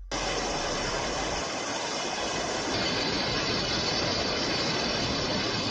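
Floodwater rushing through a dam, a dense steady roar of water noise that cuts in abruptly at the start.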